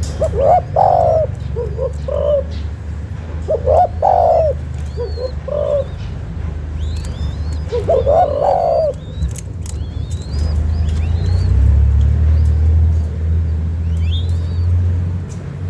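Young spotted dove cooing: three phrases of coos, each a few seconds apart, with the last one about nine seconds in. Small birds chirp faintly in the background, over a steady low rumble that grows louder in the second half.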